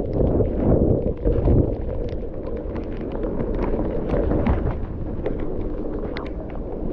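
Mountain bike descending a trail, heard from the rider's action camera: wind rumbling on the microphone under tyre noise and frequent clicks and rattles from the bike. It is loudest in the first second and a half, then eases.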